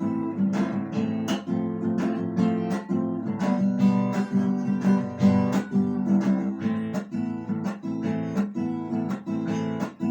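Acoustic guitar strummed in a steady rhythm, chords between verses of the song.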